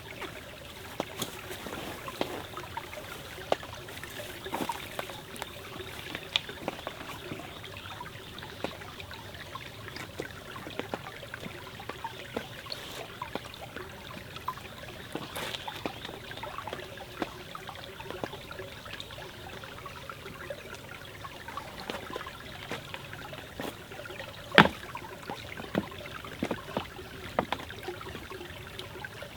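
A forest stream trickling and flowing steadily, with scattered sharp clicks and pops over it; one louder pop comes near the end.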